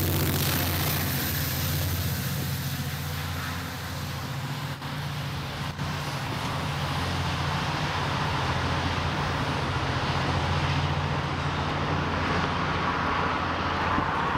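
Diesel commuter train running past: the locomotive's engine hums steadily under the rush of wheels on the rails, with two short clicks about five and six seconds in.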